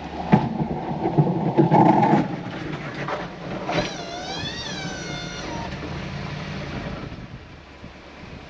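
An engine running steadily, with a loud rough rumbling clatter for the first two seconds and a high squeal that wavers up and down for a couple of seconds around the middle.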